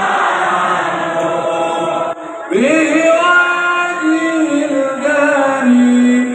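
Men chanting sholawat together over a PA sound system, breaking off about two seconds in; a lead singer then slides up into a long, ornamented held line of the sholawat melody.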